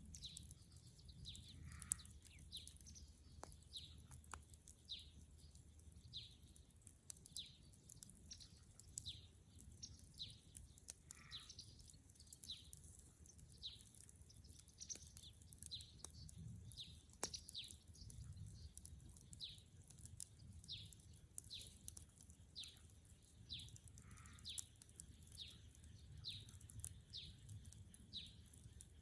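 Faint bird call: a short falling chirp repeated about once a second, with a few sharp pops from the wood fire, the strongest about two seconds in.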